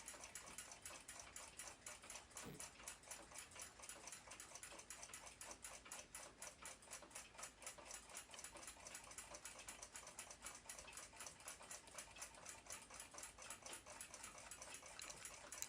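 Faint, fast, even ticking of a clock escapement, about five ticks a second, with a single soft knock about two and a half seconds in.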